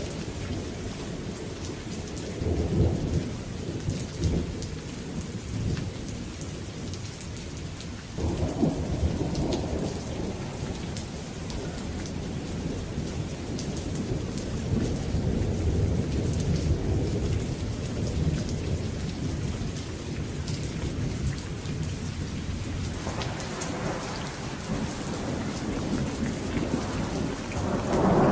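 Steady rain with thunder rumbling low and long. The rumbles swell and fade several times, and a fresh roll begins near the end.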